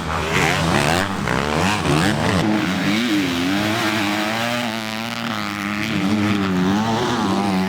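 Motocross bike engines revving up and down, the pitch rising and falling over and over as the throttle is opened and closed.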